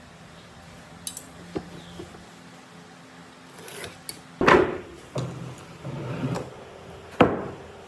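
Workshop handling sounds of wood: a few light clicks, then sharp knocks about four and a half seconds in and again near the end, with scraping and rubbing between them.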